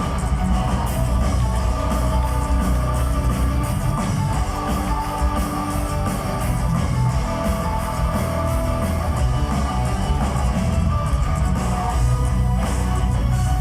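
Heavy metal band playing live, with electric guitars, bass and drums.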